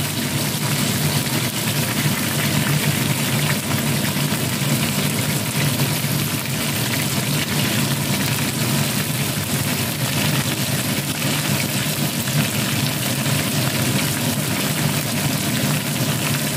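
Cornstarch-coated chicken pieces deep-frying in hot oil in a small pan, a steady dense sizzle with fine crackling pops. A steady low hum runs underneath.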